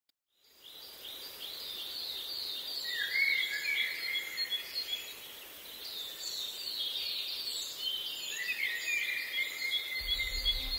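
Several birds singing: many short, high chirps and quick downward-sliding notes, repeated over and over, fading in at the start. A low rumble comes in near the end.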